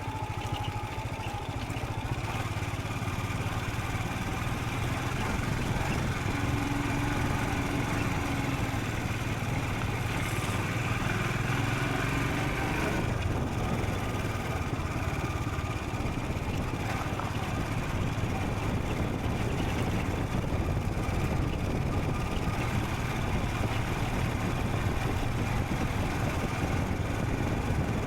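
Royal Enfield Scram 440's single-cylinder engine running steadily under way, with a constant rush of wind and road noise.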